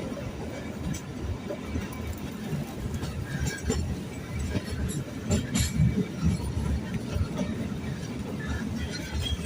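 Kalka–Shimla narrow-gauge toy train running along the track: a steady low rumble with irregular knocks and clatter from the wheels on the rails.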